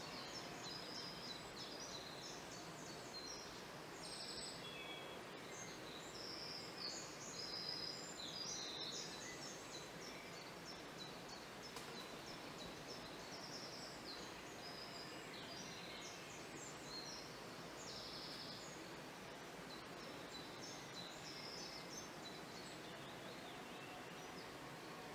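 Faint outdoor background with small birds chirping: many short, high notes come and go through most of the stretch over a steady low hiss.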